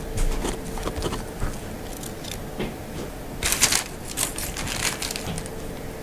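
Rustling and small clicks from stereo wiring harnesses, plugs and cables being handled, with a louder crinkling rustle about three and a half seconds in.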